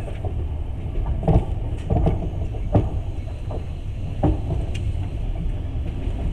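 Passenger train running, heard from inside the carriage: a steady low rumble of the wheels on the track, with a few sharp knocks at irregular times.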